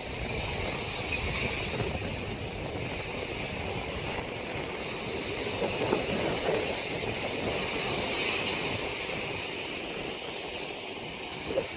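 Storm wind howling and buffeting the microphone in uneven gusts, with the hiss of rough water.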